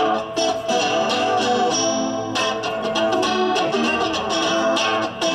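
Guitar playing the instrumental opening of a live rock song in a steady strummed rhythm.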